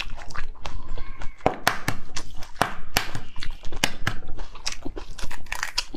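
Close-miked chewing and biting of soft braised eggs: irregular wet mouth clicks and smacks, with several sharp ones.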